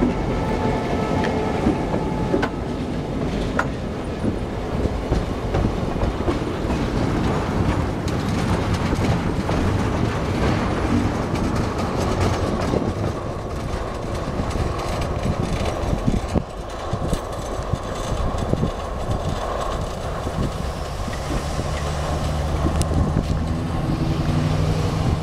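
Ontario Southland Railway train rolling along the tracks, its wheels giving many short knocks and clanks over the rail. About three quarters of the way through, a low steady drone joins in.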